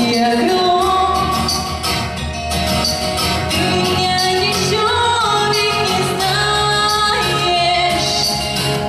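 A woman singing a Russian song with instrumental accompaniment, her voice holding and sliding between long notes.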